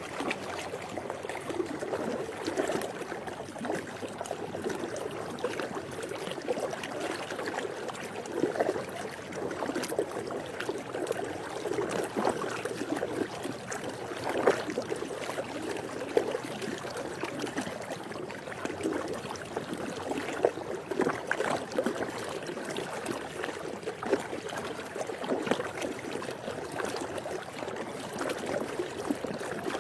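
Swimming pool water lapping steadily, with many small irregular splashes.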